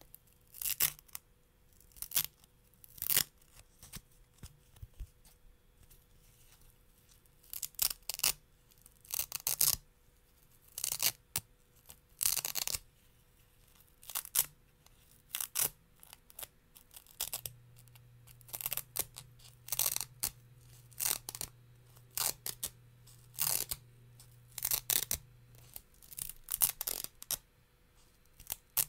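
Hook-and-loop fastener (Velcro) being pulled apart again and again, in short ripping strokes with brief pauses between them.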